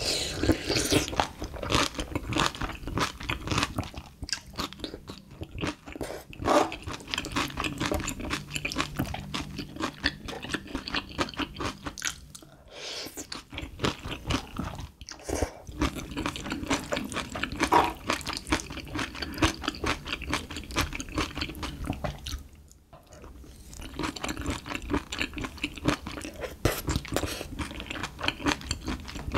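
Close-miked eating: wet chewing and crunching of mouthfuls of spicy stir-fried small octopus with bean sprouts and rice, dense and continuous, with two brief pauses between bites.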